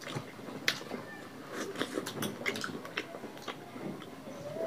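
Eating sounds of several people eating rice and rohu fish curry by hand: wet chewing and lip smacks with many short, scattered clicks.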